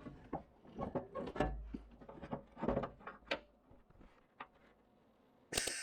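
Irregular knocks and clatter of sheet-metal car body parts being handled and fitted, then near the end a short burst of hiss and crackle: a brief MIG tack weld.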